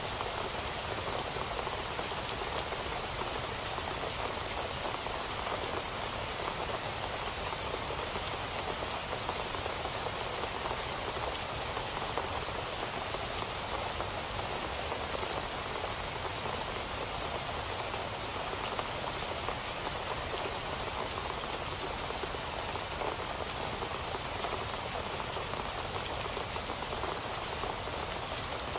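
Steady rain falling, with many fine drop patters spread evenly and no thunder.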